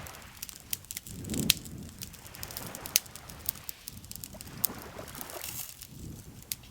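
Campfire crackling with irregular sharp pops, the loudest about a second and a half in. Beneath it, gentle lake water laps in slow swells every second or two.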